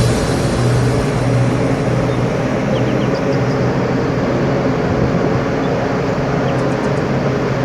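Steady low drone of a ship's or tug's diesel engines, with an even hiss over it.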